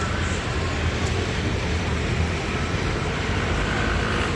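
Steady low rumble and hiss of railway station platform ambience.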